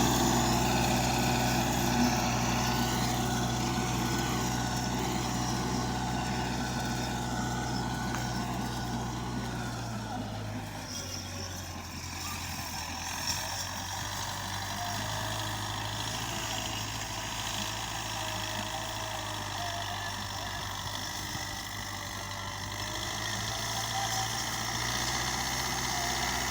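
Tractor engine running steadily. Its note drops a little about ten seconds in and rises again near the end.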